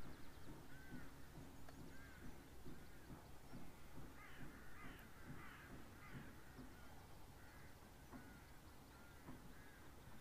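Faint bird calls: short, repeated calls scattered throughout, with a cluster of several about four to five seconds in.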